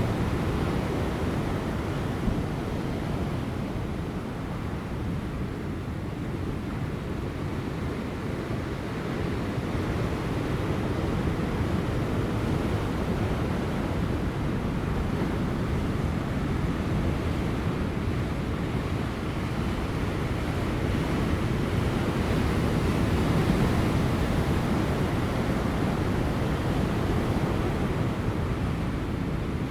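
Large ocean waves breaking on rocks just before high tide, a continuous surf wash that eases slightly and then builds again, with light wind.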